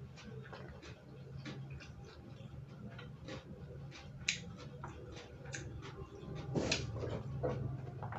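A person chewing crunchy raw vegetables, with irregular wet crunches and mouth clicks, the loudest a cluster of crunches about six and a half seconds in. A low steady hum sits underneath.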